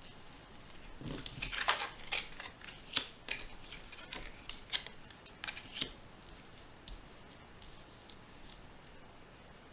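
Tarot cards being handled and shuffled: a run of crisp card snaps and rustles for about five seconds, then quiet room tone.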